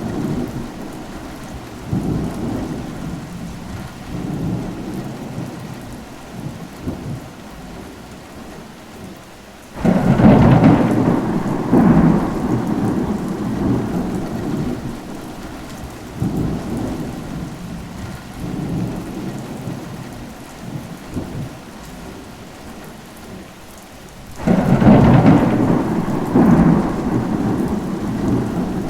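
Steady rain with thunder: two sharp thunderclaps, one about ten seconds in and another about twenty-four seconds in, each breaking suddenly and rumbling off over several seconds, with fainter distant rumbles in between.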